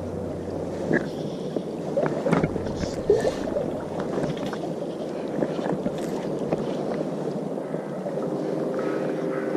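Steady rush of river water, with a few short knocks in the first few seconds and some steady tones coming in near the end.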